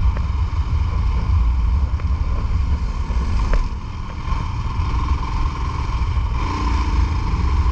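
Motorcycle running at road speed, a steady low rumble that eases briefly about four seconds in.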